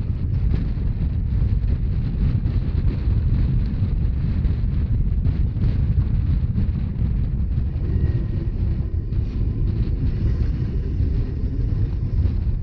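Rhaetian Railway narrow-gauge train running, a steady low rumble of wheels on rails with wind buffeting the microphone.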